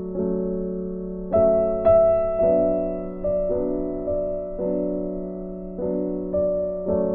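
Soft background piano music: slow, gentle chords and notes, a new one struck about every half second to a second and each dying away.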